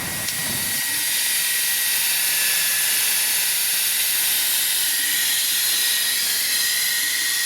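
A steady, high-pitched hiss with a thin whistling tone running through it, coming in suddenly in place of street noise.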